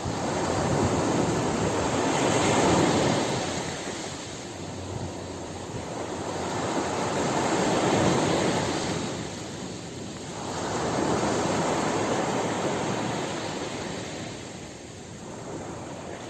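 Ocean waves breaking and washing up on a beach, the surf swelling and falling away in three slow surges about five seconds apart.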